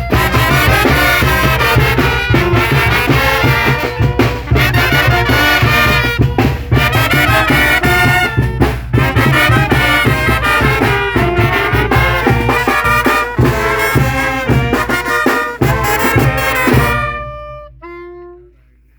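Mexican banda (brass band) playing loudly: trumpets and trombones over a deep bass line, in a steady beat. The piece ends near the end with a few held notes stepping down in pitch.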